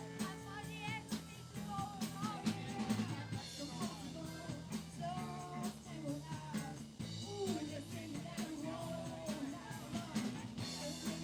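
Live band playing a rock song, with drum kit, bass guitar and a singer's voice.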